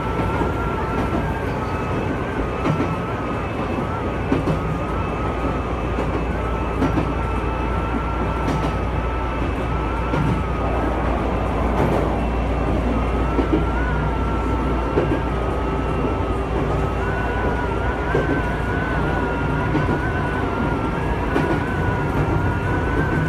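An electric commuter train running along the line, heard from inside the front car: a steady low rumble with a wavering high whine over it and occasional sharp clicks from the wheels over the rails.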